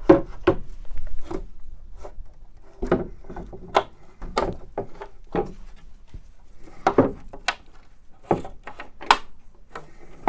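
Irregular knocks, clunks and scrapes as a van's sliding-door side step trim is worked loose and pulled off after its screws are out.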